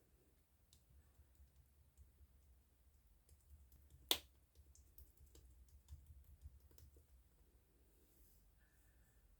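Near silence with scattered faint clicks and one sharp, louder click about four seconds in, over a low hum.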